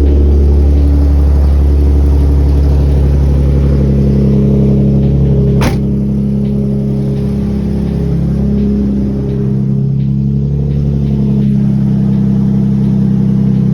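Car engine starting abruptly and running loud and steady, with a sharp click about six seconds in.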